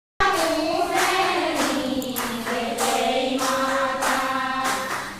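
Several voices singing together in unison, in long held phrases that break about once a second.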